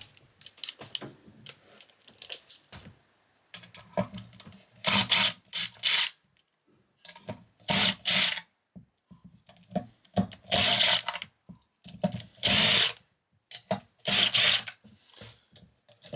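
Cordless drill-driver running in several short bursts, each half a second to a second long, backing screws out of the junction box, with lighter clicks and handling of small parts between them.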